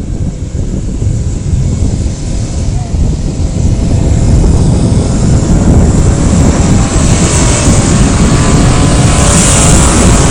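Off-road vehicle engine running with heavy rumble and wind noise on the microphone, growing louder about halfway through.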